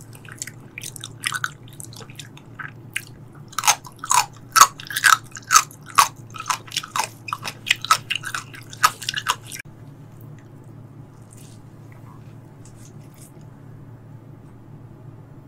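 Close-miked chewing: a run of wet mouth clicks and smacks, loudest from about four to nine and a half seconds in, then stopping, leaving a low steady hum underneath.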